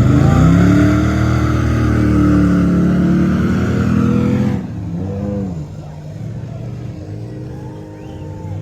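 A large truck engine revving up and held at high revs under load for about four and a half seconds, then backing off abruptly to a lower, steadier run with a short blip of throttle.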